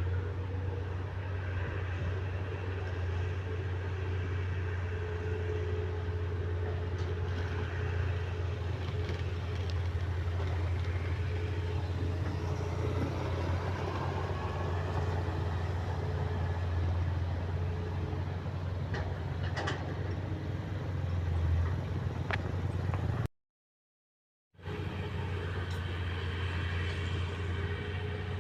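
Heavy diesel earth-moving machinery running steadily, an excavator and bulldozer working, with a deep, even engine drone and a few faint knocks. The sound cuts out completely for about a second near the end, then resumes.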